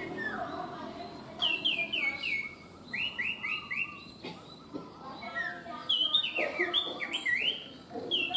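A small songbird singing in several bursts of quick whistled notes, each note dropping in pitch, about four or five a second.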